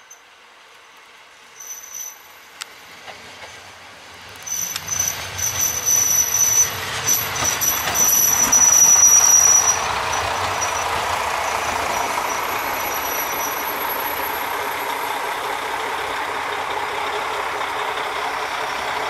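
Three-car diesel railcar train arriving at a station and passing close by as it slows. High-pitched squealing from the wheels and brakes comes in about two seconds in and is loudest as the cars go past, over clacking wheels and a low engine rumble. After about ten seconds it settles into a steady running noise as the train draws slowly past.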